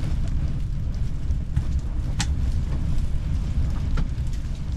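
Storm wind buffeting the microphone, a steady low rumble. There is a sharp click about two seconds in and a fainter one near the end.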